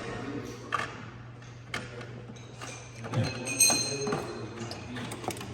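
Metal tools knocking and clinking against an aircraft engine cylinder's exhaust valve gear while the valve rotator cap is worked off: a few sharp taps, then a cluster of clinks with a short metallic ring a little past halfway, over a steady low hum.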